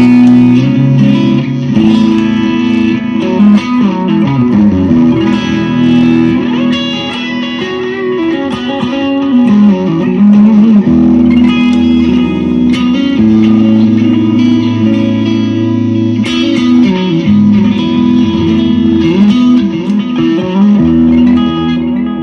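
Clean electric guitar through a Universal Audio Ruby amp pedal with spring reverb and tape delay, playing sustained chords and melodic lines, with notes sliding in pitch around the middle.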